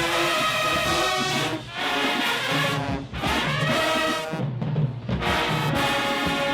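High school marching band's brass section playing held chords, broken by short gaps between phrases about a second and a half in, at three seconds, and around four and a half seconds.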